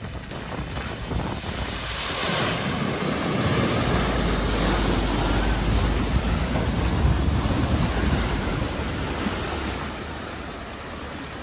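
Floodwater splashing and surging as a vehicle drives through a flooded ford, its engine running low underneath, with wind noise on the microphone. The water noise builds to its loudest mid-way, then eases off.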